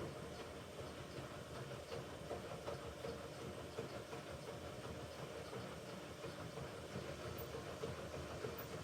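Hoover Ecologic Computer Washer 1300 washing machine running steadily on its rinse and spin programme: a steady hum with an even rumble underneath.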